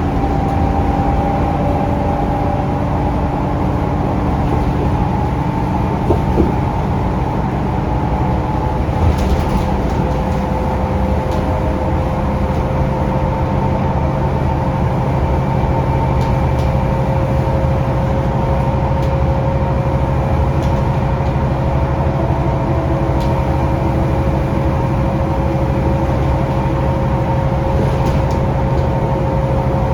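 Scania K360UA articulated city bus heard from on board while under way: its Scania DC9 engine and ZF Ecolife automatic gearbox running steadily with road noise. Steady whining tones shift in pitch as it goes, with a couple of short knocks about 6 and 9 seconds in.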